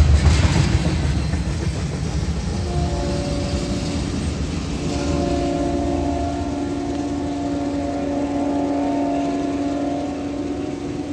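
Freight train's covered hopper cars rumbling past on the rails, the rumble fading over the first few seconds as the train pulls away. A locomotive horn chord then sounds in the distance from about three seconds in, in long blasts with a short break around the middle.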